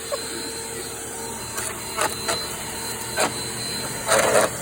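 Power Force compact vacuum cleaner running steadily, with a few sharp clicks and a short rattle about four seconds in as dirt and debris are drawn up the hose.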